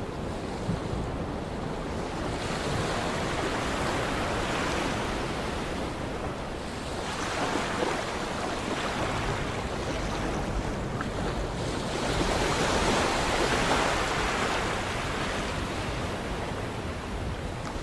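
Sea waves washing in, swelling and fading in three surges a few seconds apart.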